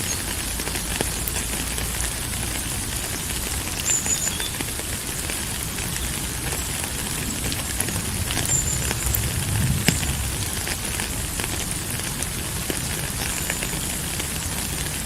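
Steady rain falling, a dense hiss with many small drop ticks. A soft low swell rises and fades about two thirds of the way through.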